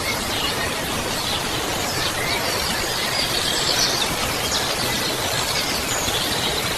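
A steady rushing noise with short high chirps scattered over it.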